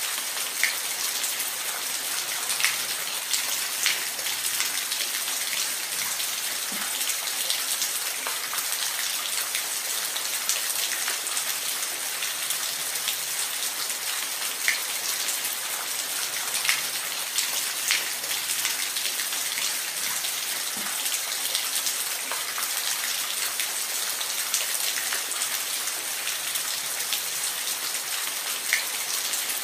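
Steady rain, a dense hiss with scattered individual drops ticking sharply on a surface.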